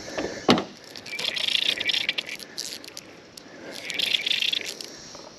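Fly reel's clicker drag ratcheting in two bursts as a hooked brown trout pulls line off the reel, with a sharp knock about half a second in.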